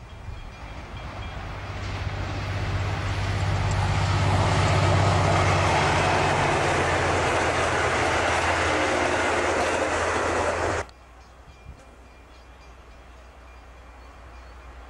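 A diesel-hauled passenger train passing close by: its engine and wheel noise build to a peak about four to five seconds in and hold steady as the carriages go by. Near the end the sound cuts off abruptly to the faint rumble of another diesel train approaching in the distance.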